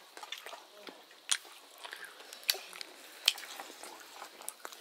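Close-up eating sounds: wet chewing and mouth smacks, with three sharp clicks standing out about a second, two and a half seconds and three seconds in.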